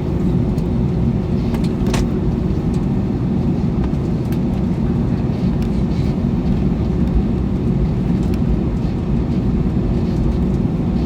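Cabin noise of an Airbus A321 on the ground before takeoff: a steady low rumble from the running engines with a steady hum, and a few light clicks and rattles.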